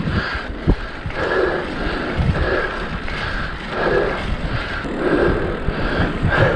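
Wind rushing over the microphone and tyre noise from a mountain bike rolling along a tarmac road, with a soft whooshing swell about once every second or so.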